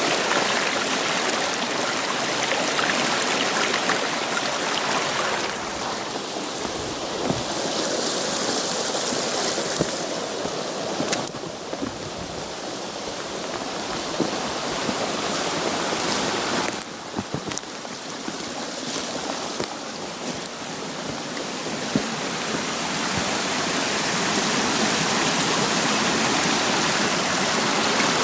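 Rushing water of a creek swollen by heavy rain: a steady, full noise that drops and swells a few times, with small scattered ticks.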